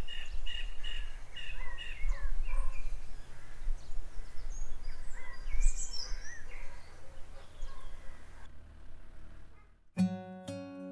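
Small birds chirping repeatedly over a steady low background rumble. About a second before the end, a strummed acoustic guitar comes in.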